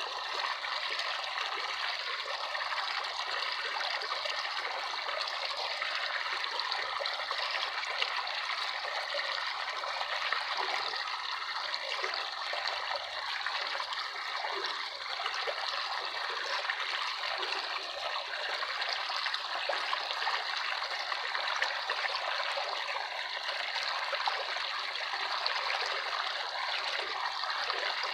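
Running water trickling steadily, an even, unbroken flow with small splashy flickers throughout.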